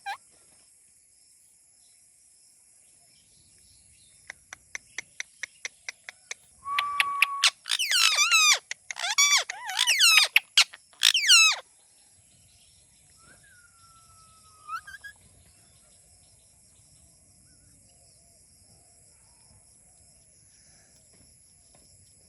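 Indian ringneck parrot calling: a run of quick chirps, then a held whistle and a burst of loud warbling calls, with one short gliding whistle a little later.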